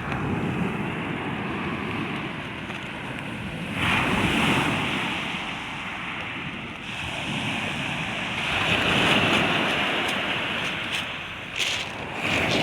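Sea surf: waves breaking and washing up a stony beach, surging louder about four seconds in and again around nine seconds. Wind buffets the microphone.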